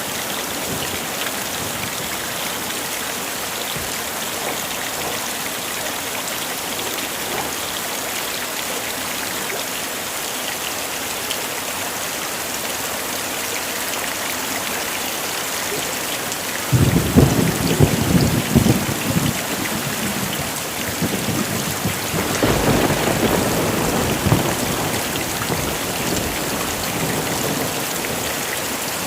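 Heavy rain falling steadily. A sudden crack of thunder comes a little over halfway through, with a second rumble of thunder a few seconds later.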